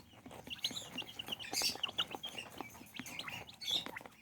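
A brood of young chicks peeping, many short high chirps in quick succession, with scattered light clicks and rustles.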